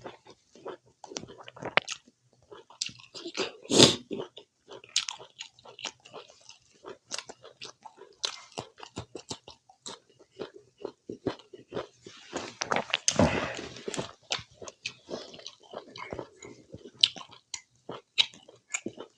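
Close-up mouth sounds of someone eating spicy pork curry with rice: chewing and biting with many quick wet clicks and crunches. There is a louder crunch about four seconds in and a longer, louder stretch of chewing a little past the middle.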